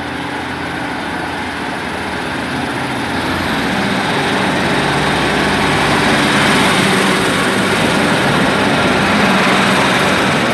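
Class 156 Sprinter diesel multiple unit pulling away, its diesel engine getting louder as it accelerates, with a high whine that rises in pitch about three seconds in.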